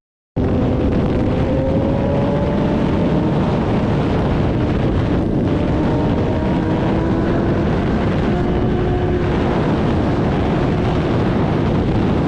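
Motorcycle engine running at speed under heavy wind noise on the microphone, its pitch climbing slowly. It starts abruptly just after the opening.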